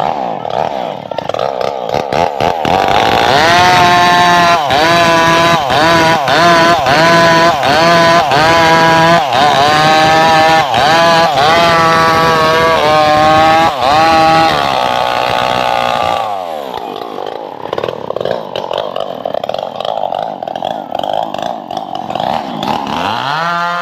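Engine-driven saw cutting trembesi (rain tree) wood. The engine's pitch dips again and again under load for about ten seconds. It then runs rougher and quieter for a while, and rises again near the end.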